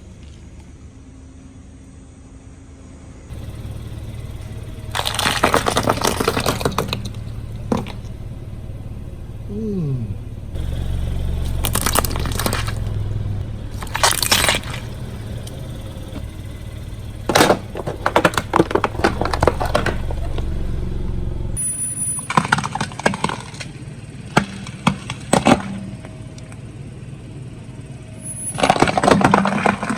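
Car tyre rolling over and crushing objects, with repeated bursts of crunching and cracking. Under them is the car's low running rumble, which stops about two-thirds of the way through.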